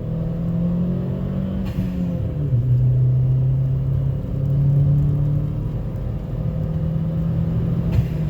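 Chevy Sonic's 1.4-litre turbocharged four-cylinder engine running while driving, heard from inside the car with an Injen cold air intake fitted. The engine note drops about two seconds in and rises and falls again later, with a brief click about two seconds in and another near the end.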